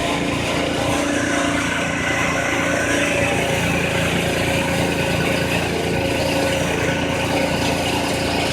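Compressed-air dryer vent cleaning equipment running: a steady motor drone with a hiss of rushing air, unchanging throughout.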